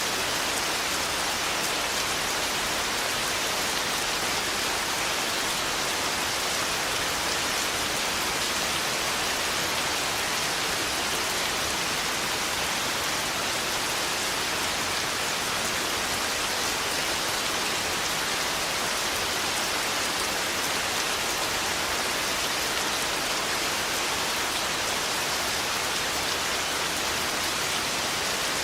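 Steady heavy rain, an even, unchanging hiss with no thunderclaps.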